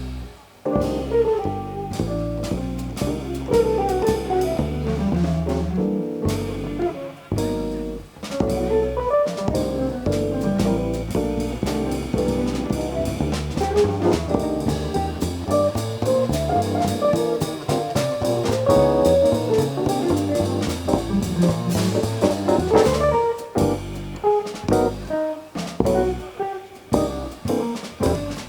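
A jazz band playing live: horns, possibly saxophone, over double bass and drum kit.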